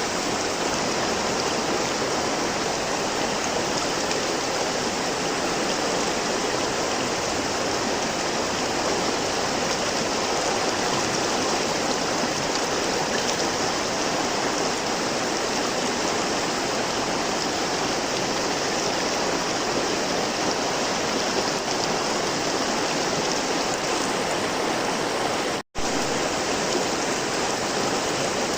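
River water flowing over rocks: a steady, even rushing. It cuts out for an instant about 26 seconds in, then carries on unchanged.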